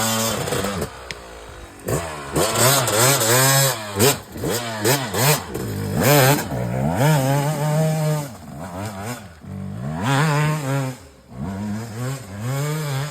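Small dirt bike engine revving hard, its pitch climbing and dropping over and over as the throttle is worked.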